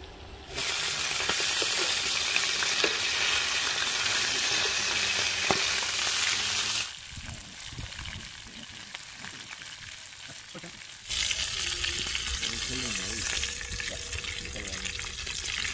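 Chicken pieces sizzling in hot oil in a frying pan, with a metal slotted spoon turning them. The sizzle drops away about 7 seconds in and comes back about 11 seconds in.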